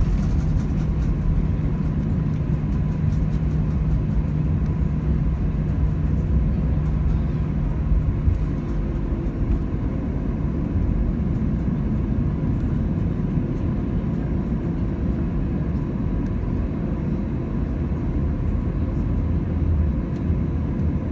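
Airbus A320neo airliner heard from inside the passenger cabin: a loud, steady engine and airframe rumble. A low hum gives way to a slightly higher one about nine seconds in.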